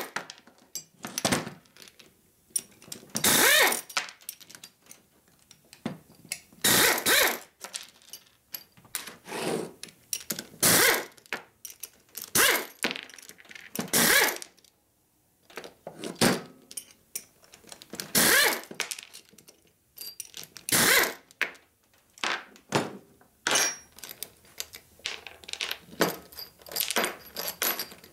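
Steel rocker arms and their supports from a Harley panhead engine clinking and scraping as they are handled and worked by hand on a workbench, in short sharp bursts every second or two.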